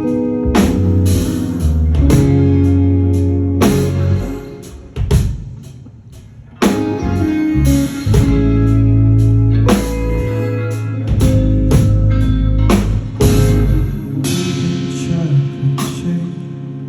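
Live band playing an instrumental intro: guitar chords over bass and drum kit, dropping to quieter playing about four seconds in, then coming back in full with a hit a little before seven seconds.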